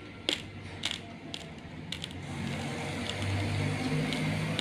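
Raw long-grain rice crunching between the teeth: a few sharp, crisp cracks in the first two seconds. After that a low steady hum rises and fills the rest.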